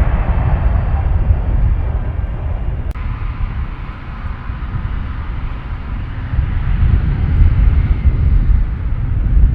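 Airliner engines rumbling low, easing off around four seconds in and building again from about six seconds, with one sharp click about three seconds in.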